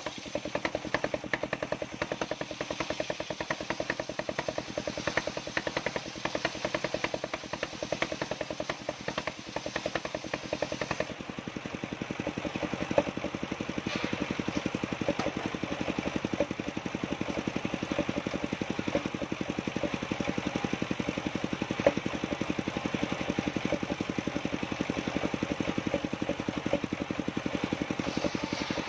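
An engine running steadily with a rapid, even pulse; its sound changes about eleven seconds in.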